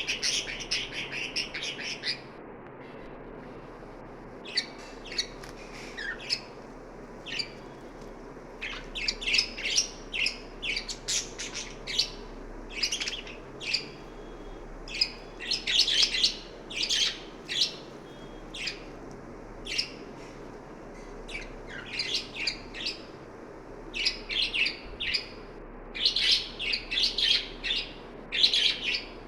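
Budgerigars chirping: quick clusters of short, high calls with brief pauses between them, over a steady background hiss.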